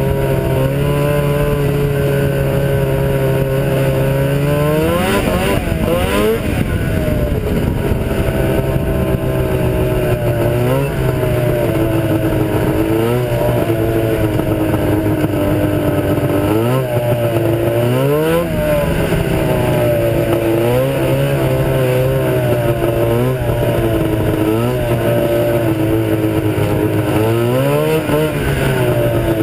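Ski-Doo Blizzard 7500 snowmobile's two-stroke engine running steadily, revving up sharply and easing back about six times.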